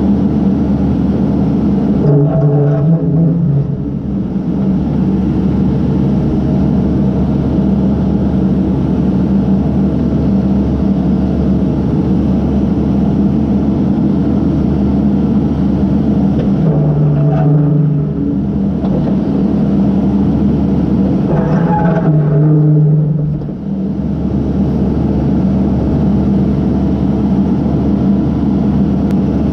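Case backhoe's diesel engine running steadily under work, its note shifting briefly three times.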